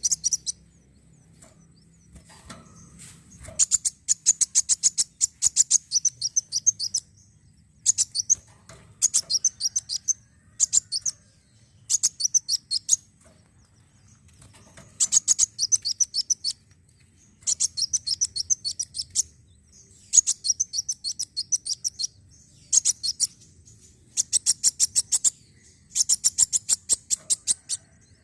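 Kolibri wulung sunbird singing: repeated short phrases of very fast, high-pitched trilling chips, each a second or so long, separated by short pauses.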